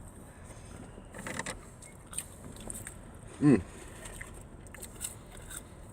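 Low steady background hum with a few short rustles, and one brief voiced "mm" about three and a half seconds in.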